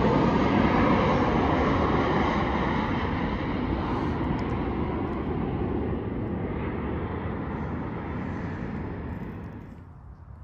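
Airplane passing low overhead, a steady engine rush that is loudest in the first couple of seconds and fades away, dropping off near the end.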